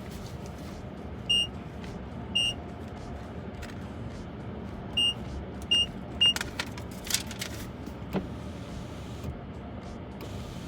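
Car wash keypad beeping five times as a wash code is punched in, each beep short and high, over a car engine running steadily.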